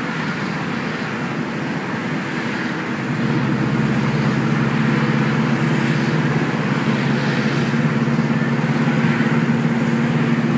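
1973 Saab 96's V4 engine running under way, heard from inside the cabin with road noise; it gets louder about three seconds in and then runs on at a steady pitch.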